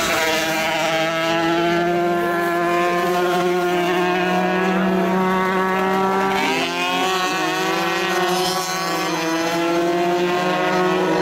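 125cc motocross motorcycle engines running at high revs, holding a steady high pitch, with a short drop and pick-up in revs about six and a half seconds in.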